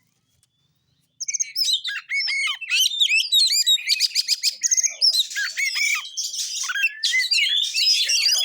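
Oriental magpie-robin (kacer) singing a fast, varied song of rapid chirps, whistles and rolling trills, the rapid 'roll tembak' style kept by bird keepers; the song starts about a second in after near silence.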